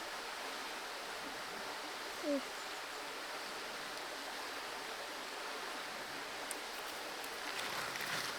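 Creek water running steadily, with a short voice-like sound about two seconds in and light rustling near the end.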